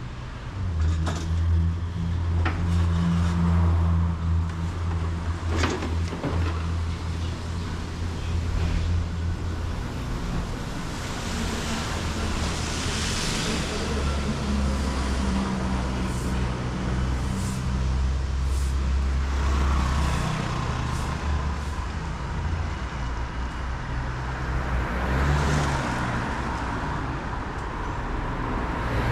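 Street traffic on a rain-wet city street: a steady low rumble of engines, with cars passing about twelve seconds in and again near the end. A few sharp knocks come in the first several seconds.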